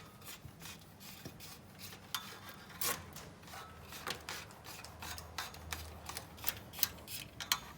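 Electrical wire being fed by hand through drilled holes in a caravan panel: irregular rubbing and scraping with scattered small clicks as the wire is pulled through.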